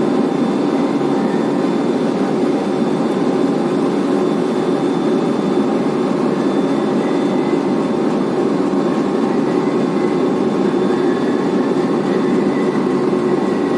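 Blast furnace main charging conveyor belt running with a load of sinter: a loud, steady, even machine noise with a few faint steady tones above it.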